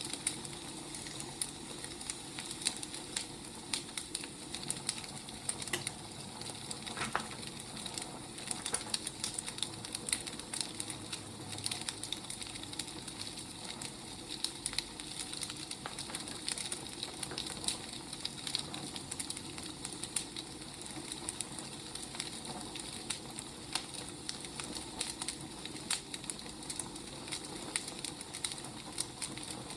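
Firewood burning, crackling with frequent small pops over a steady hiss.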